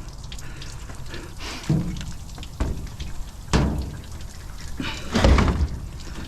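Washing machine being tipped and shoved, with several heavy thuds and scrapes; the loudest and longest comes about five seconds in. Water left in the drum sloshes as it moves.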